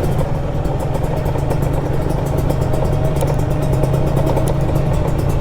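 Kawasaki Ninja 150 RR's single-cylinder two-stroke engine running at a steady speed while being ridden, with no revving up or down.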